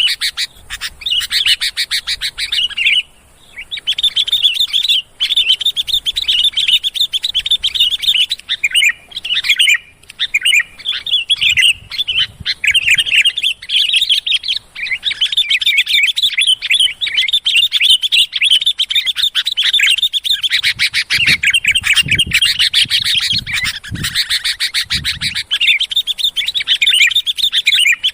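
Sooty-headed bulbuls (kutilang) calling rowdily: a dense, almost unbroken chatter of quick chirps and short whistled notes, the kind of flock sound used to lure the birds in.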